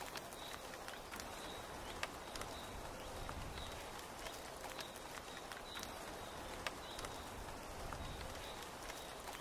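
Steady rain falling on a tent, with scattered drips and taps, and a short high chirp from a small creature repeating about once a second.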